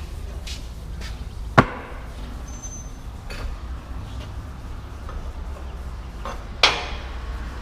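Two sharp hammer blows, about five seconds apart, during work on a front wheel bearing, with fainter light ticks about twice a second and a steady low hum beneath.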